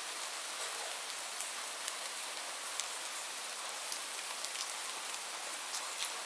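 Steady rainfall: an even hiss of rain with many separate drops ticking on a surface.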